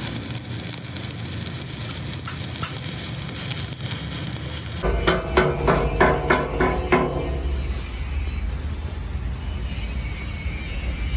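A hammer striking metal in a quick run of about eight blows about halfway through, over a low steady machine hum, with steady hissing noise before and after.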